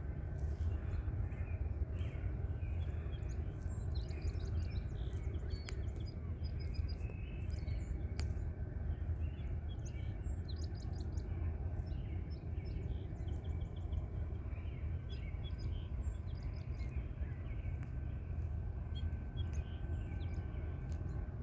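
Small birds chirping over and over, short high calls scattered throughout, over a steady low rumble of outdoor background noise.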